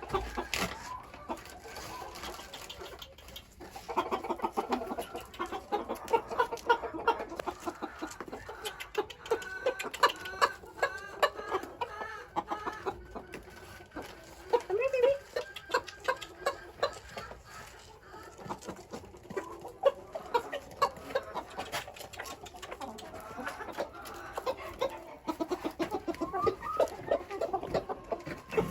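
A flock of hens clucking, with many short overlapping calls that run on throughout.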